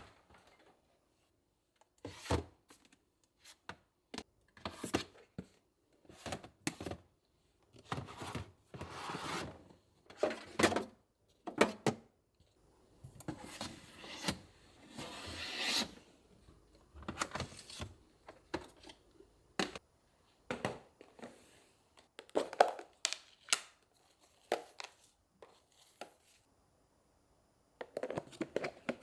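Kitchen handling sounds: scattered short knocks and clacks, with a few longer rustling or scraping stretches, one of them growing louder around the middle.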